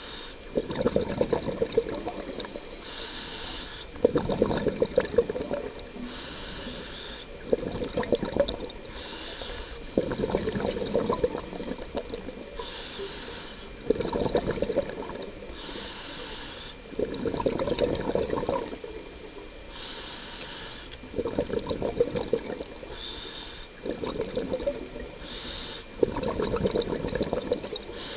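Scuba diver breathing through a regulator underwater: a short hissing inhale, then a louder burst of bubbling exhaled air, repeating every three to four seconds.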